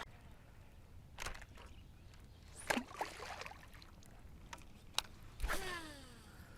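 Fishing-kayak handling sounds: a few sharp knocks and clicks of tackle against the hull, then, about five and a half seconds in, a short whine that falls in pitch as a fishing reel spins out on a cast.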